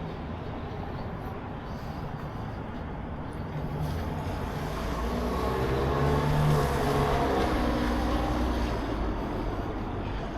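A motor vehicle driving past: engine and tyre noise swell to a peak about two-thirds of the way through, the engine note dropping slightly as it goes by, then fade. Under it runs a steady low hum.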